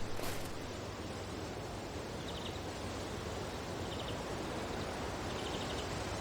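Steady wind, a blizzard-like hiss. There is a crunch just after the start, and three short, rapid high chirps come about two, four and five and a half seconds in.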